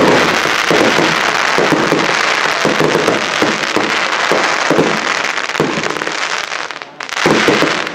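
Display fireworks going off in a dense, continuous barrage of bursts and crackling. It eases briefly about seven seconds in, then another loud flurry follows.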